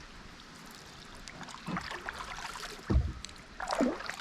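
Water splashing and lapping against a kayak, with scattered small knocks and a low thump about three seconds in.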